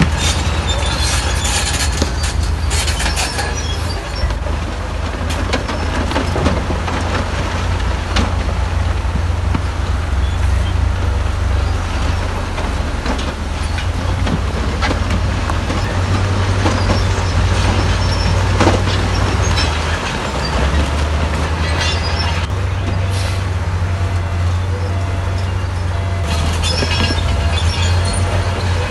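Crawler bulldozer's diesel engine running steadily under load, with clanking and squealing from its steel tracks and scraping of rock, and bursts of harsher grinding near the start and again towards the end.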